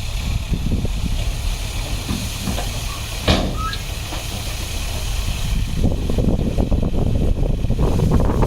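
Heavy diesel earthmoving equipment running with a steady low rumble, with a sharp short knock about three seconds in; the sound grows busier and louder from about six seconds in.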